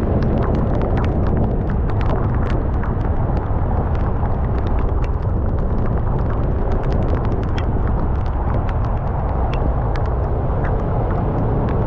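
Steady low rumble of wind and road noise from a scooter riding in heavy rain, with frequent sharp ticks of raindrops striking the camera.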